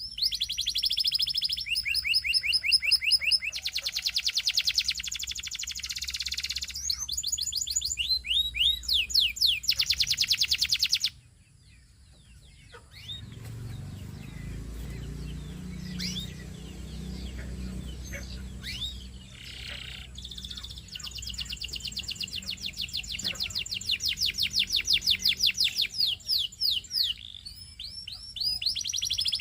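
Domestic canary singing long, rapid trills and rolls. The song cuts off suddenly about eleven seconds in, leaving faint chirps over a low hum, and loud trilling starts again about twenty seconds in.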